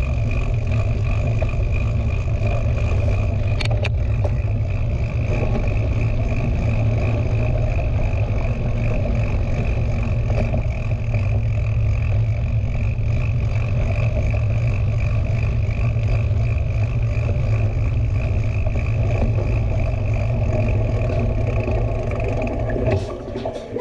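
Wind rushing over the helmet or bike camera's microphone and tyres rolling on a dirt trail as a mountain bike rides at speed, with a steady hum over the noise. The noise drops away sharply near the end as the bike slows.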